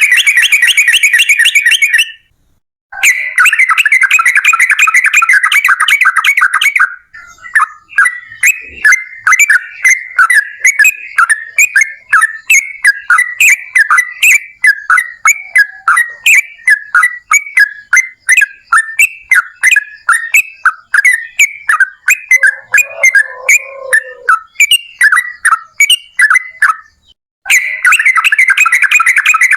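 Yellow-vented bulbul (trucukan) singing loudly in a long rapid chattering trill. A brief break then gives way to a long run of quick, separate bubbly chirps at about three to four notes a second, and the rapid trill returns near the end.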